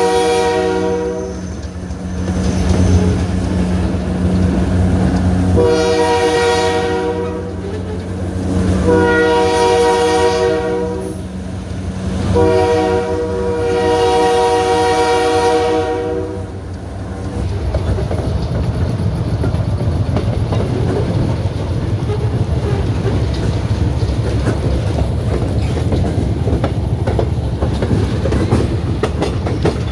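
Train horn sounding four long blasts, the last the longest, over the low rumble of the moving train. After the horn stops, the train rolls on with wheels clicking over the rail joints.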